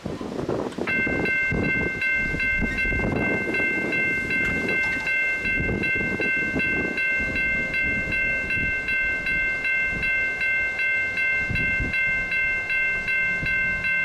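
CSX diesel locomotive's multi-chime air horn sounding one long chord of several tones. It starts about a second in and is held through, its level pulsing evenly about three times a second, over the rumble of the oncoming freight train.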